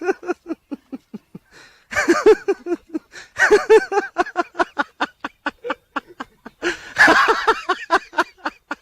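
A person laughing hard: a long run of short, rhythmic ha-ha bursts, about four a second, swelling louder three times.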